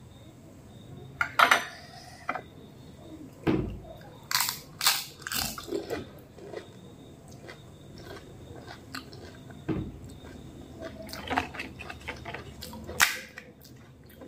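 Crunching and chewing of phuchka (pani puri): the crisp fried puri shells crack as they are bitten, in several irregular clusters of sharp crunches with quieter chewing between.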